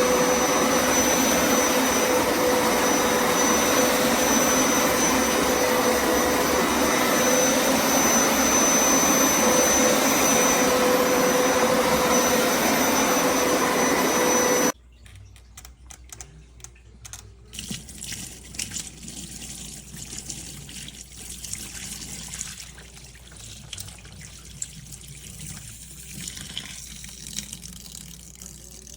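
Hoover Power Scrub Deluxe carpet cleaner running, a steady rushing noise with a constant whine, which cuts off suddenly about halfway through. Faint, irregular handling noises follow.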